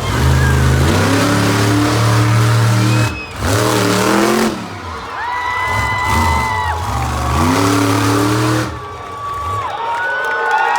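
Monster truck engine revving hard during a freestyle run, its pitch climbing and falling as the throttle is worked. The throttle is chopped briefly about three seconds in and again near the end.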